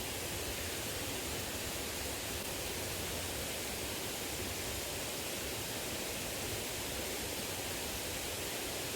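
Steady rushing of a small river's flowing water, an even noise with no separate sounds in it.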